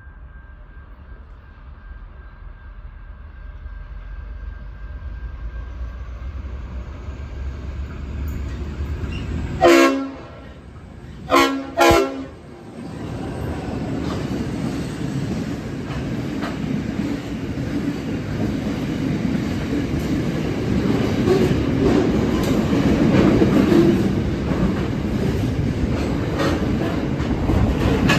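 BL class diesel-electric locomotive approaching, its engine rumble growing louder, then sounding its horn three times, once and then twice more in quick succession. The train then passes close by, with loud engine and wheel rumble and clickety-clack of wheels over rail joints.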